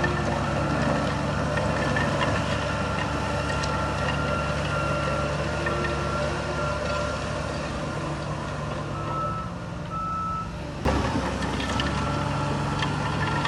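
Heavy diesel earthmoving machinery running, with a reversing alarm beeping in a steady on-off pattern over the engine. The sound jumps abruptly about eleven seconds in.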